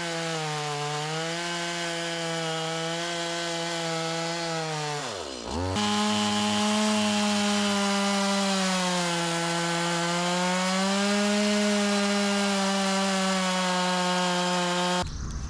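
Stihl two-stroke chainsaw running at cutting speed through an oak round as a plunge cut is made. About five seconds in, the engine speed dips sharply and recovers. It then runs a little higher and louder before stopping suddenly near the end.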